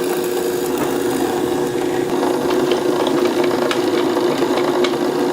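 Drill press running steadily with a strong hum, its bit boring a centre hole into a glued-up block of two 2x4s, with scattered light ticks in the second half.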